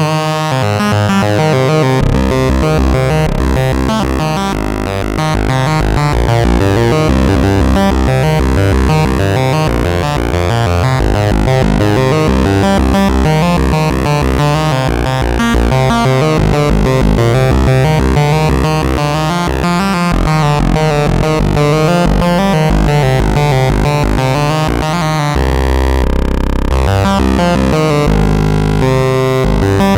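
Arturia MatrixBrute analog synthesizer playing a lead patch, a melodic line over a pulsing low bass part that comes in about two seconds in.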